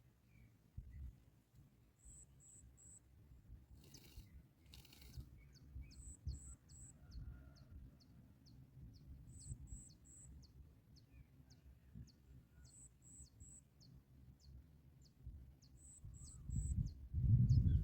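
Outdoor ambience of small high-pitched chirps. Groups of three chirps repeat about every second and a half over a steadier, faster ticking, with a low rumble that grows louder near the end.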